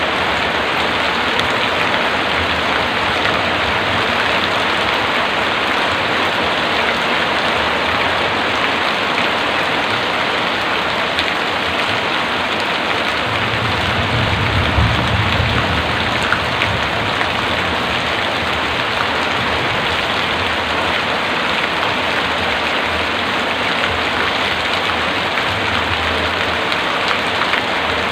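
Heavy rain falling steadily on surfaces, with a brief low rumble about halfway through.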